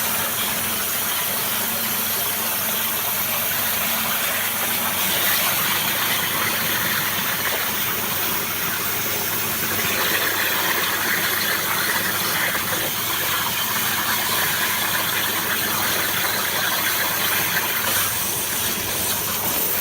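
Abrasive waterjet cutting machine running, its high-pressure water jet making a steady, loud hissing rush with a faint low hum underneath.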